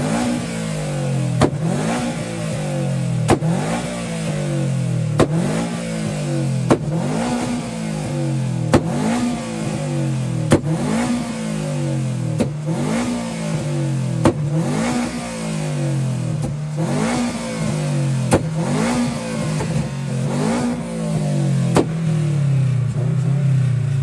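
Car engine revved again and again in short blips, about one every two seconds, each with a sharp crack as the pitch rises and falls back.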